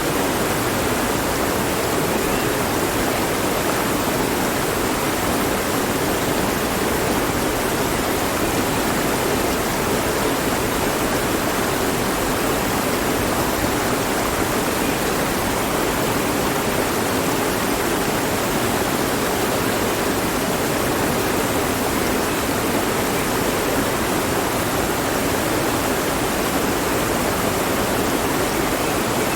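Mountain stream rushing over rocks: a steady, even sound of running water with no breaks.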